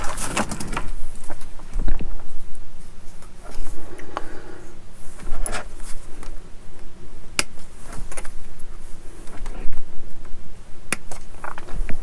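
Small plastic model-kit parts and tools being handled on a workbench: scattered sharp clicks and light scraping or rustling, with two clearer clicks late on.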